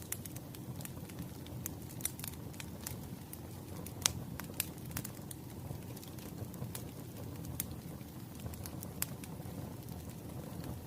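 Wood fire burning: a low, steady rush of flame with scattered sharp crackles and pops of the burning logs. The loudest pop comes about four seconds in.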